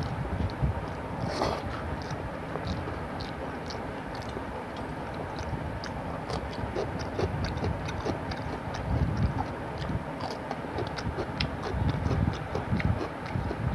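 Close-miked eating by hand: chewing and wet mouth and lip-smacking sounds, with short clicks throughout, as rice and fish curry are mixed by fingers on a steel plate and a cucumber slice is bitten.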